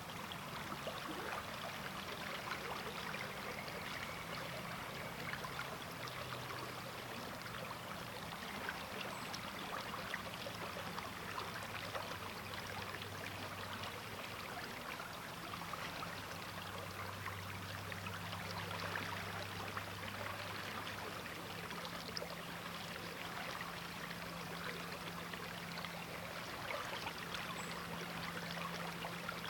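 River water flowing steadily over a shallow bed, a continuous babbling and trickling rush with fine splashing detail. A faint low drone lies underneath and shifts pitch now and then.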